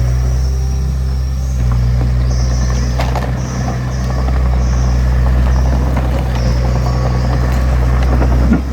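Heavy diesel earthmoving machinery running steadily at an even low pitch, with a sharp knock about three seconds in.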